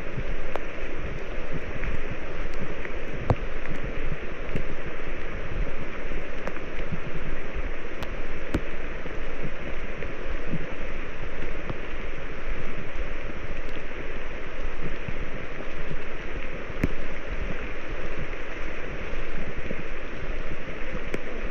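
Steady, loud rushing of water, even throughout, with a few faint clicks.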